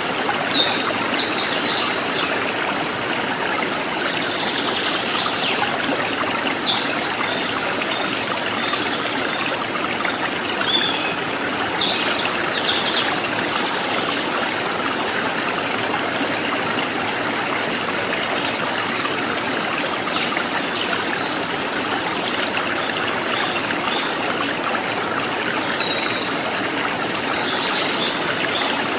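Forest stream trickling and babbling steadily, with short chirps and whistled calls of wild birds above it, busiest near the start and again near the end.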